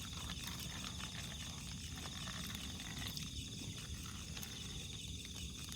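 Night insects, crickets, chirring steadily in a high, pulsing trill, over a low steady rumble.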